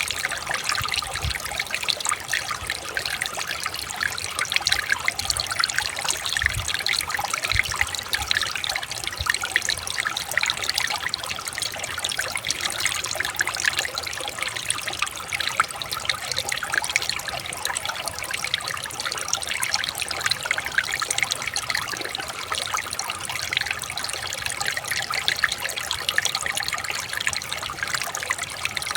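Shallow river or stream water trickling and babbling over stones, a steady even rush with many small splashes.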